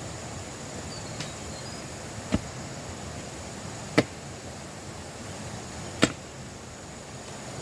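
Three sharp strikes about two seconds apart, the middle one the loudest, like a blade chopping or something knocking on wood, over a steady background hiss.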